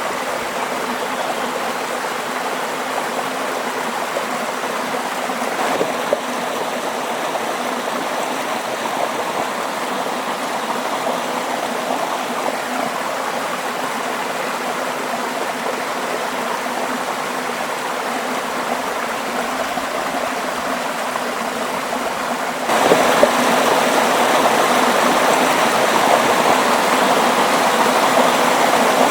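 Water rushing and gurgling steadily in a stream. About three quarters of the way through it suddenly gets louder and brighter, as at a cut to a livelier stretch of water.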